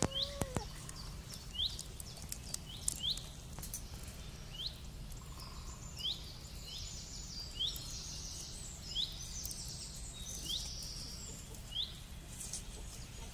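A bird repeating a short, sharp chirp about every second and a half, with scattered faint clicks and a low steady hum underneath.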